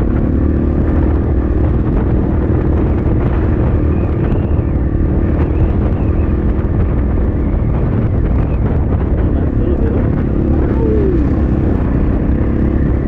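Templar X 250 dirt bike engine running steadily while riding, with short rises and falls in pitch about ten seconds in. Strong wind buffets the microphone underneath.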